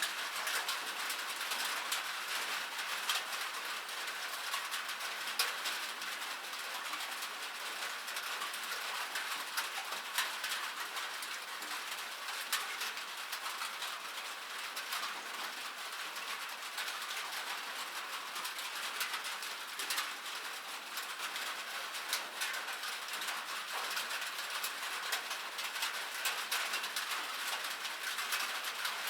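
Rain falling on metal: a steady, dense patter of drops with many sharp individual ticks.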